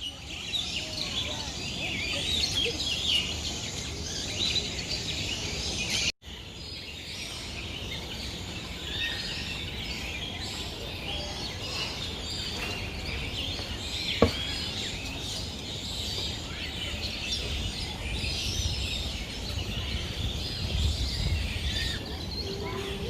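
A dense chorus of many birds chirping and twittering together, high-pitched and overlapping, over low background noise; the sound drops out for an instant about six seconds in, and a single sharp click stands out in the middle.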